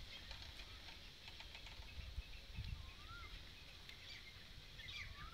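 Faint outdoor ambience with a low rumble and a few light clicks, and a bird's short chirp about three seconds in, with more bird calls starting near the end.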